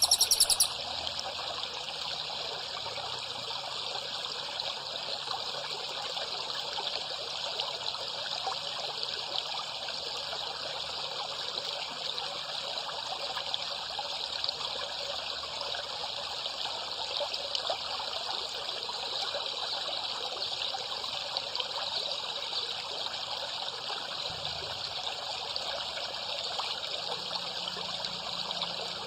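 Water trickling and babbling steadily without a break. A louder bird-song recording cuts off within the first second.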